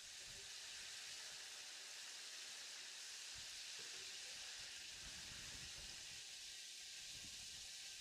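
Food frying in hot oil, a steady sizzle with a few soft low bumps.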